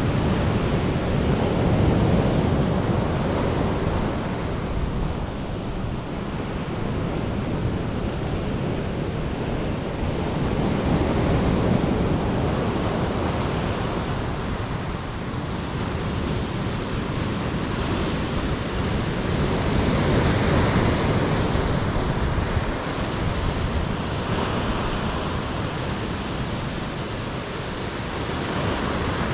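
Rough, stormy sea: surf breaking and washing in, rising and falling in waves of loudness, with wind rumbling on the microphone.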